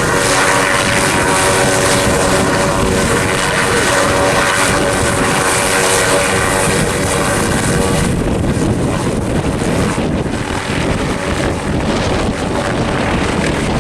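Helicopter running as it lifts off: a steady whine over dense rotor noise, with wind buffeting the microphone. About two-thirds of the way through, the high hiss drops away somewhat.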